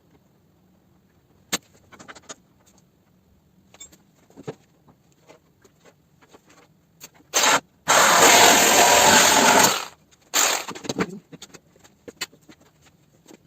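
Scattered light clicks and knocks of metal bodywork, then loud harsh rasping noise from a power tool in short runs, the longest about two seconds.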